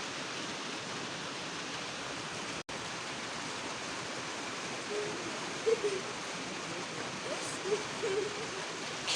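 Hailstorm pelting down hard: a steady, dense hiss of hailstones. It cuts out for an instant about two and a half seconds in, and a few faint short pitched sounds come through in the second half.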